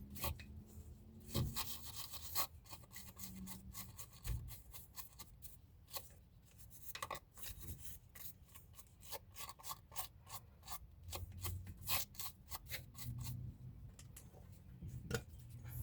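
Irregular short scrapes, rubs and clicks of hand work on a disc brake caliper and its pads.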